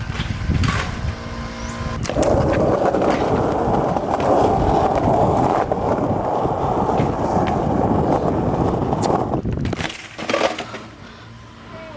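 Wheels rolling over rough pavement with a steady gritty rumble for several seconds, most likely a BMX bike being ridden. The rumble stops with a sharp knock about ten seconds in.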